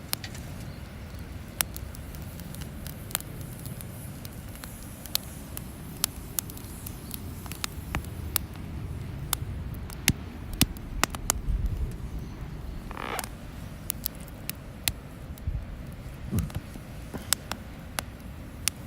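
Wood campfire crackling, with irregular sharp pops and snaps over the low rumble of the flames. A short wavering sound comes a little past the middle.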